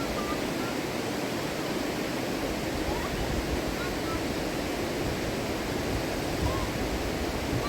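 Steady rush of a fast-flowing river, with a few faint short chirps over it.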